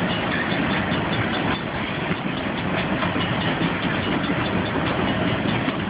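A long freight train rolling past with a steady rumble, its wheels clicking evenly over the rail joints.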